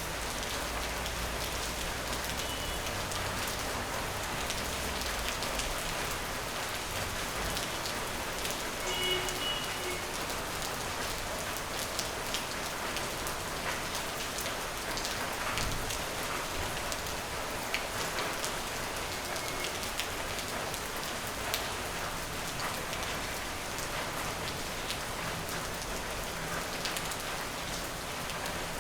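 Steady rain falling on a surface: an even hiss dotted with many individual drops ticking.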